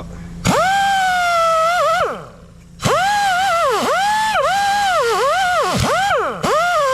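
Power tool spinning a wire wheel to clean corroded battery cable connections. It runs in two bursts, with a gap of under a second around the two-second mark. The motor whine dips in pitch again and again as the wheel is pressed against the metal.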